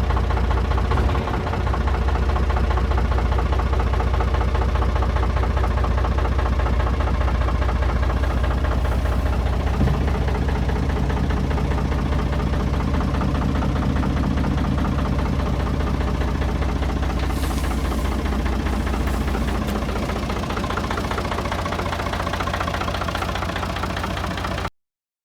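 Diesel engine of a Heden FC1340 truck running steadily, then cutting off abruptly near the end.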